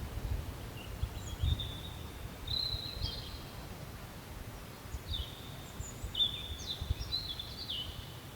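A songbird singing two short phrases of high whistled notes, the first about a second in and the second about five seconds in, over a low, uneven rumble.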